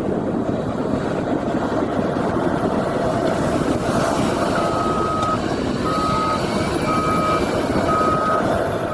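Heavy snow-clearing machine running steadily. From about halfway through, its reversing alarm beeps about once a second.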